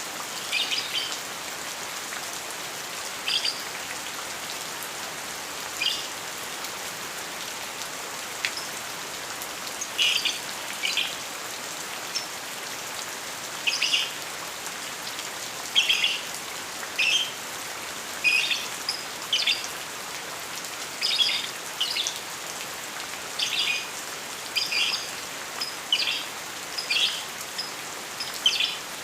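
A lovebird calling in short high chirps, a few at first and then coming about every second, over the steady hiss of falling rain.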